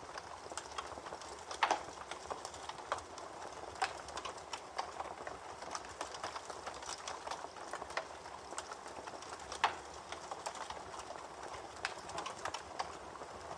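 Campfire crackling, with irregular snaps and a couple of louder pops, over the steady rush of a babbling creek.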